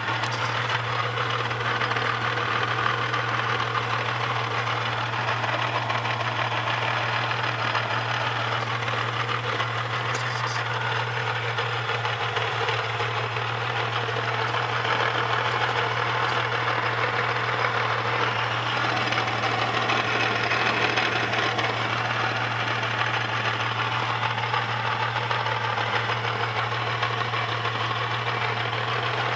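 Holden VS Series 2 Commodore's 3.8-litre Ecotec V6 running steadily with a rattle that seems to come from inside the engine, which has done about 400,000 km.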